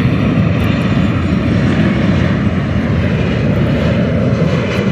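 Jet engines of a 9 Air Boeing 737 airliner on final approach just before touchdown, thrust pulled back for landing: a loud, steady rumble with a hiss and faint whine above it.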